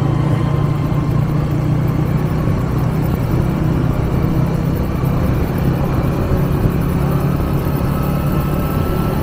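125cc motorcycle engine running steadily while ridden at an even speed.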